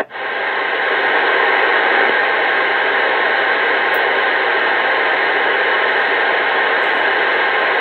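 CB radio receiver hissing with steady open-channel static between transmissions, a faint steady tone under the hiss.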